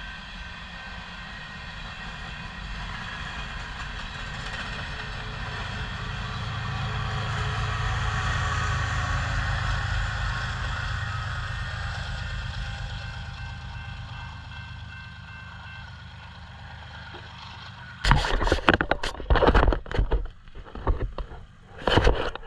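Freight train rolling past, a low rumble with a steady whine above it, swelling to a peak about nine seconds in and then fading away. From about eighteen seconds, loud irregular thumps cut in.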